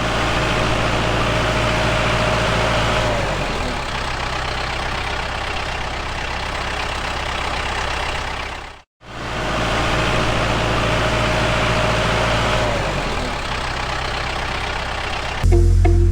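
Tractor engine running, a steady drone with a low hum that drops in pitch about three seconds in. It cuts out briefly near the middle, then the same engine sound plays again.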